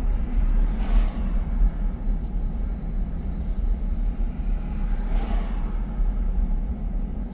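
A car driving: a steady low road and engine rumble, with two brief rushing swells of hiss, one about a second in and one around five seconds.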